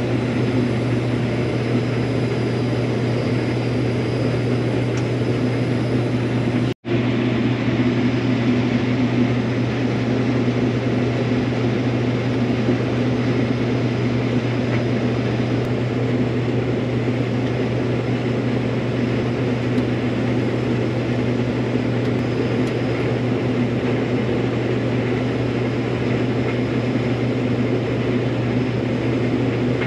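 Combine harvester running steadily while cutting wheat: a constant low engine and machinery drone. The sound drops out for an instant about seven seconds in.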